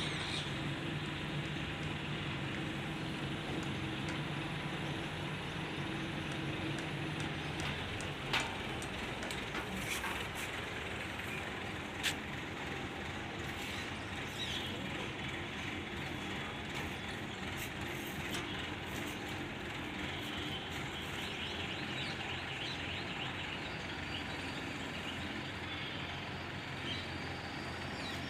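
Diesel engine of a JCB 3DX backhoe loader running steadily at work, its note changing about seven seconds in, with two sharp knocks near the middle.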